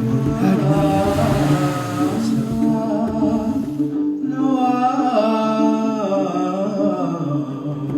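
A man singing a slow, wavering melody with bending notes over low, repeating plucked bass notes.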